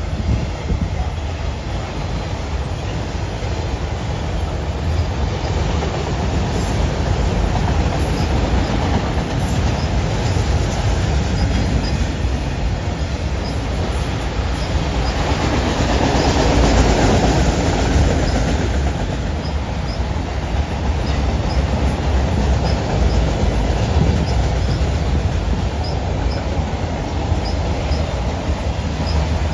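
A freight train of autorack cars rolling past: a steady rumble of steel wheels on rail that swells for a few seconds around the middle.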